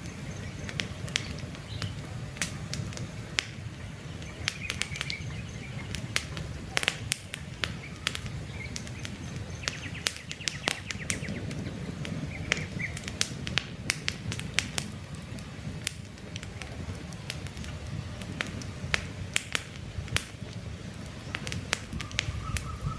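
Campfire crackling, with frequent sharp pops over a low steady rush of burning wood, and faint short bird chirps in the background.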